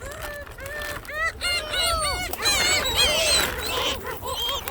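A dense flock of gulls squabbling, many harsh calls overlapping one another, each call rising and falling in pitch.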